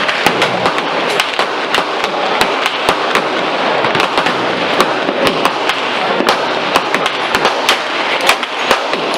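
Gunshots on a busy range, many shots at irregular spacing, several a second, heard over a steady hiss.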